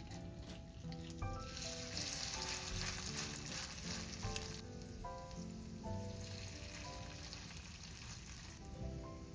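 Food sizzling and crackling as it fries in a hot pan. It swells to its loudest from about one to four and a half seconds in, with a sharp pop near the middle, then settles to a quieter sizzle.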